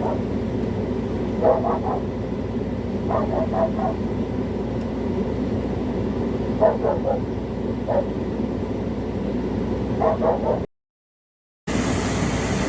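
Dogs barking in short bursts of two to four barks every second or two, over a steady low rumble. The sound drops out completely for about a second near the end.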